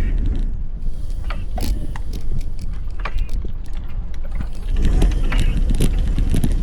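Wind rumble on the microphone while riding a bike along a street, with scattered short rattles and clicks.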